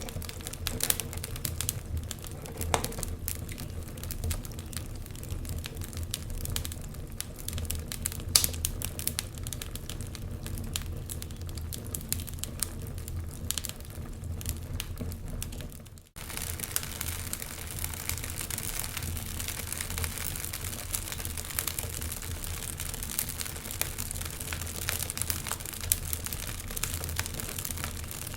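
Wood fire crackling, with many irregular sharp pops and snaps over a steady low rumble. The sound drops out for a moment about halfway through.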